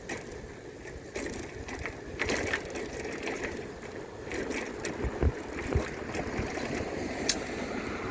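Bicycle being ridden: steady rolling noise from the tyres over a rough surface, with scattered clicks and rattles from the bike.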